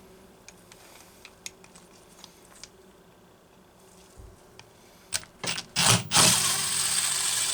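Tools working on a dismantled chainsaw crankcase: faint scattered clicks and scrapes, then a few loud short noises about five seconds in and a harsh, even noise lasting just over a second that cuts off abruptly.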